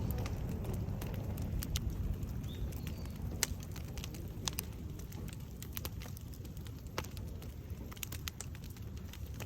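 Wood bonfire burning: a steady low rumble of flame with scattered sharp crackles and pops from the burning wood.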